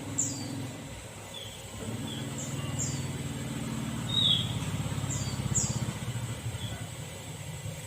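Sooty-headed bulbul (kutilang) giving scattered short, high chirps that slide downward, with a louder call about four seconds in. Under them runs a low steady hum that swells through the middle and fades near the end.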